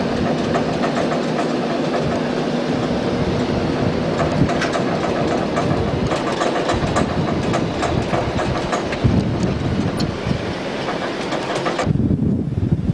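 Steady rumbling vehicle noise with a dense clatter of rattles and clicks. The higher part of the sound drops out abruptly near the end.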